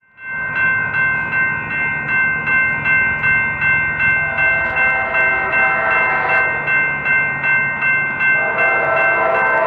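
Railroad grade-crossing bell ringing in a steady beat of about two and a half strikes a second. A train horn joins in and becomes loud near the end.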